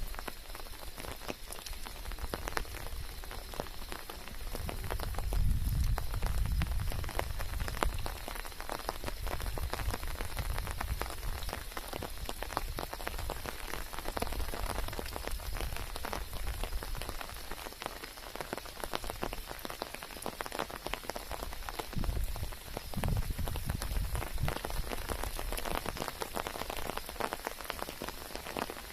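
Steady rain falling, a dense patter of drops close to the microphone. Two stretches of low rumble rise under it, about five seconds in and again about twenty-two seconds in.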